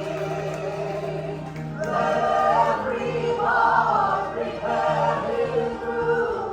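Group of voices singing together over musical accompaniment, growing louder about two seconds in.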